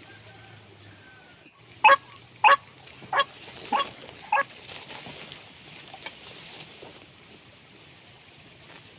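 A bird calling five loud, short notes in a steady series about two-thirds of a second apart, starting a bit under two seconds in, over a quiet outdoor background.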